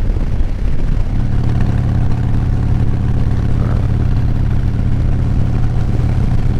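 Motorcycle engine running at a steady cruise, heard from inside the rider's helmet along with rushing air. It is rougher for the first second, then settles into a steady note.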